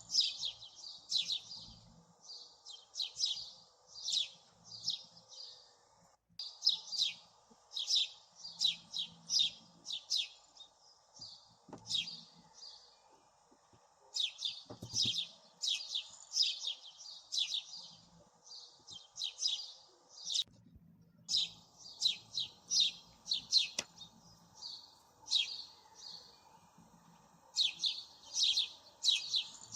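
Small songbirds chirping in quick, high-pitched repeated phrases, almost without pause, with brief breaks about six seconds in and again about two-thirds of the way through.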